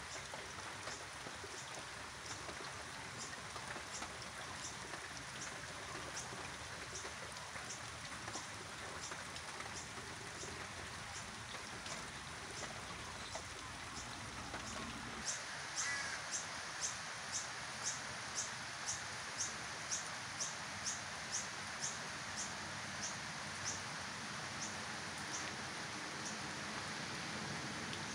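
Steady rain falling on a wet grassy paddock. Over it runs a regular series of short, high-pitched chirps about two a second from an unseen animal. The chirps grow louder about halfway through and fade again near the end.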